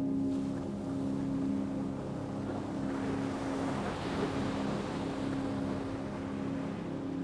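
Ocean waves, one swelling in and washing out over a few seconds, over a steady low hum.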